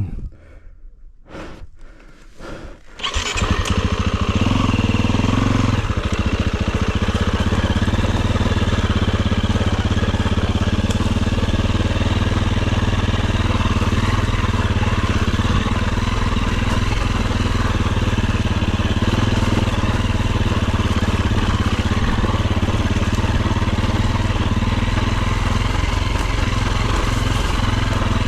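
Dirt bike engine that comes in suddenly about three seconds in, then runs loud and steady.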